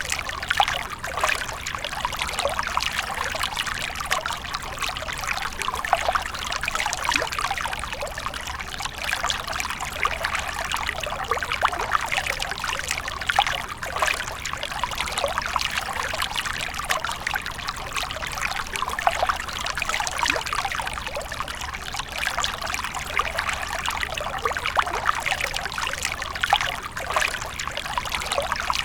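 Water from a fountain splashing and trickling steadily.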